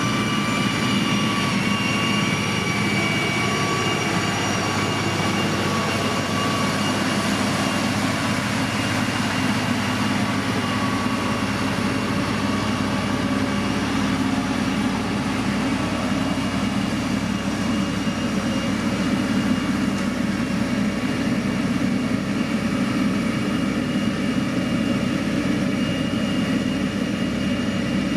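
Heavy road-building machine's diesel engine running steadily under load, with a thin high whine over it that fades after several seconds.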